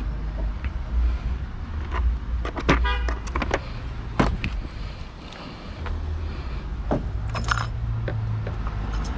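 Metal hand tools clinking and tapping against battery-terminal hardware, with a socket wrench ratcheting briefly about three seconds in, over a steady low rumble.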